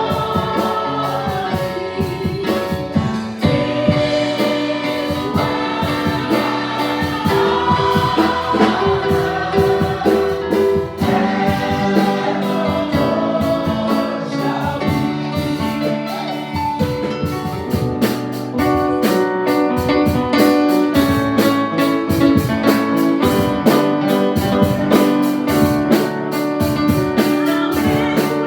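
Gospel praise-and-worship song: a choir singing with keyboard and band accompaniment over a steady beat.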